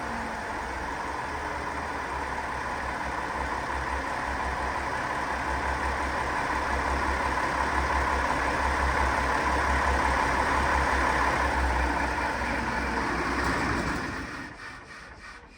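KiHa 40 diesel railcar's engine running steadily after a rev, its pitch settling at the start and the sound growing somewhat louder in the middle. About fourteen seconds in the engine is shut down and the sound dies away within a second or so.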